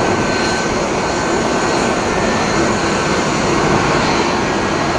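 Widebody twin-engine jet airliner passing close on landing approach: a loud, steady roar of its jet engines with a faint high whine in it.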